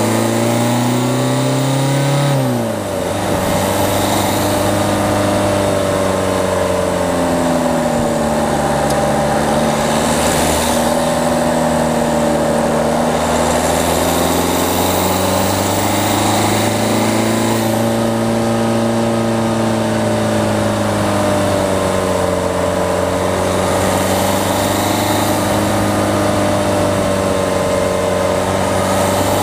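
Peugeot 208's diesel engine pulling while driving, heard from outside the front of the car. The revs climb and then drop sharply about two and a half seconds in, then rise and fall gently with the throttle.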